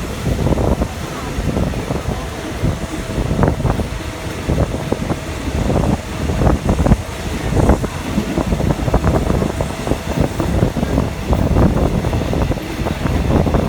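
Passenger train running, heard from inside the carriage: a steady rumble with irregular rattles and knocks, and wind rushing in.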